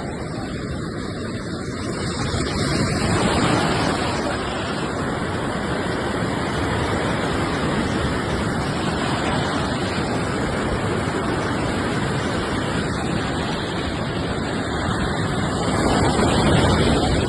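Surf breaking on a beach: a steady rush of waves that swells louder about three seconds in and again near the end.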